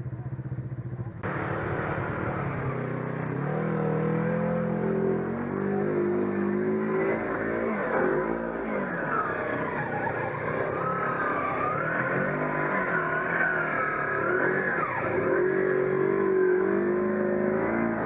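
Off-road side-by-side engine revving up and easing off again and again, its pitch rising and falling. The sound changes abruptly about a second in, from a steady low tone to a fuller, noisier one.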